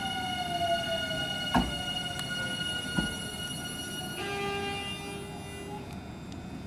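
Nankai 8000 series electric train braking to a stop, its motor inverter whine falling in pitch, with two sharp knocks about a second and a half apart. The high whine cuts off about four seconds in as the train comes to a halt, followed by a short steady lower tone.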